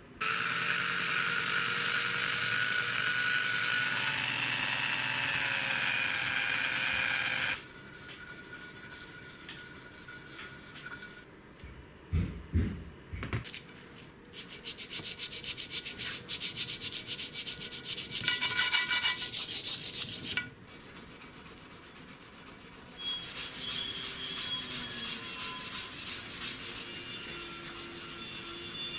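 Hand-work on the cast-iron slide of a Schaublin SV-12 milling machine: rubbing and scraping strokes on the metal. The first several seconds are a louder steady rubbing with a faint whine that cuts off abruptly. After that come shorter, irregular strokes, a few low knocks, and a fast run of strokes in the middle.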